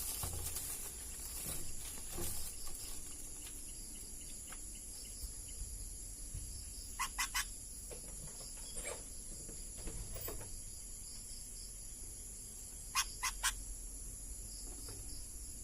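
Steady high-pitched chorus of night crickets, with two quick groups of three short, sharp chirps, about seven and thirteen seconds in.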